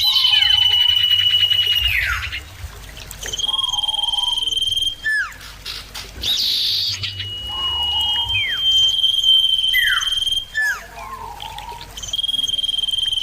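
Common ioras singing: long, steady, high whistles held for a second or two and repeated about five times, each with short downward-slurred notes. A brighter flurry of notes comes about halfway through.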